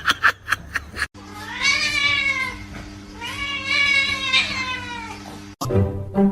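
A domestic cat yowling: two long drawn-out meows, each rising then falling in pitch, over a steady low hum. A few short sharp clicks come in the first second before it.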